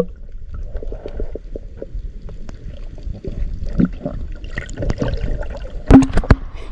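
Shallow seawater sloshing and trickling over exposed reef rock, with a louder splash about six seconds in.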